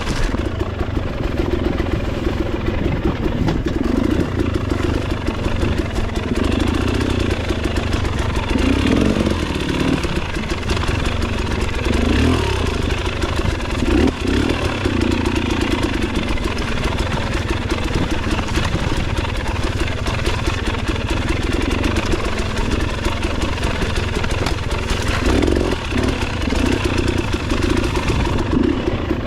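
Motorcycle engine running steadily while riding, its pitch wavering up and down a little with the throttle.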